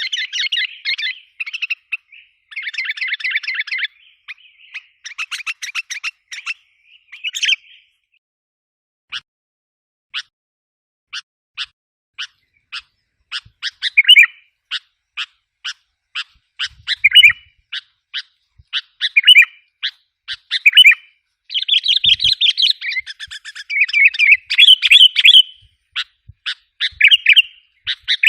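Sooty-headed bulbul (kutilang) lure call: bursts of fast scolding chatter alternating with runs of single sharp chip notes, about one a second in the middle, with short warbled phrases among them.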